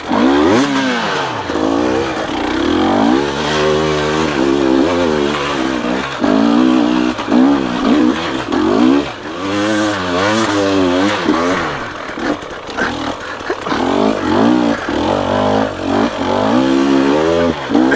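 Dirt bike engine revving in repeated bursts of throttle, its pitch rising and falling again and again, as the bike is worked up a steep climb.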